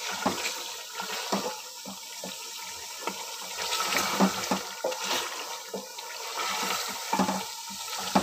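Chicken, tomatoes and spices sizzling in hot oil in an aluminium pot while a wooden spoon stirs them, with frequent irregular knocks and scrapes of the spoon against the pot.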